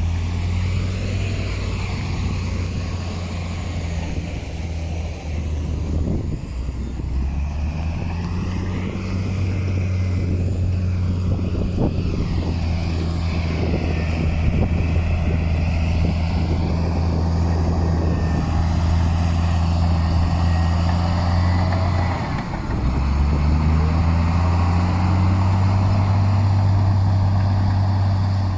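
Heavy earthmoving machine's diesel engine running steadily under load, its note dipping about five seconds in and again about two-thirds of the way through before picking back up, with scattered knocks in between.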